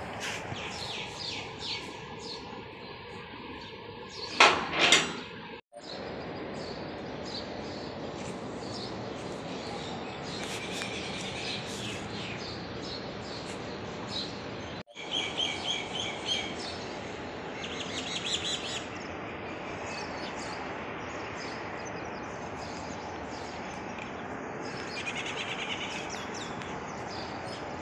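Birds chirping in repeated short calls over a steady background hiss of outdoor noise, with a short louder burst about four seconds in. The sound drops out for an instant twice.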